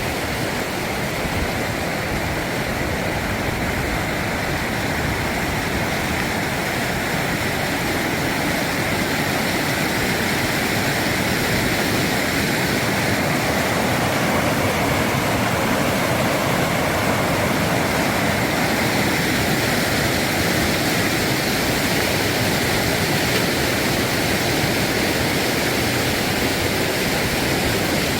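River water rushing over rocks, a steady even rush that grows a little louder about ten seconds in.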